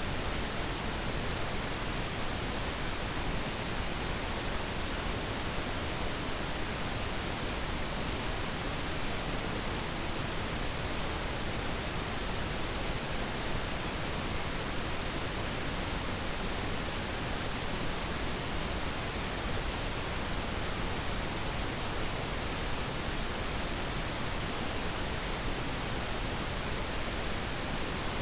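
Steady pink noise: a constant, even hiss with no changes or events.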